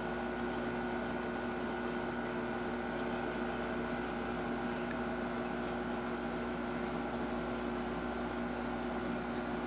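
Steady hum of reef aquarium equipment: a pump motor holding a few constant tones over the wash of circulating water.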